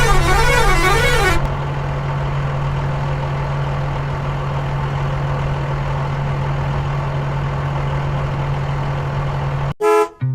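A warbling horn, rising and falling in pitch about twice a second, stops about a second and a half in. It leaves a steady vehicle engine drone with a low hum. Near the end the drone cuts off suddenly, with a brief loud blip.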